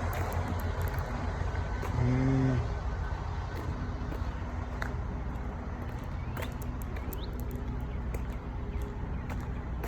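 Diesel truck engine idling steadily with a low rumble. About two seconds in, a short low-pitched tone sounds for about half a second.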